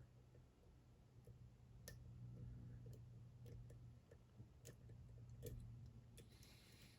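Faint, irregular small clicks of a hook pick working the pins inside a Dom IX Twinstar dimple lock, about a dozen of them, over a low steady hum.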